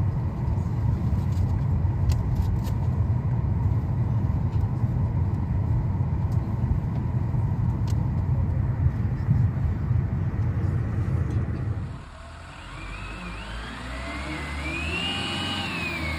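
Motor vehicle sounds: a loud, steady low rumble of traffic or a vehicle driving. It cuts off suddenly near the end and gives way to a quieter car engine revving, its whine rising and falling.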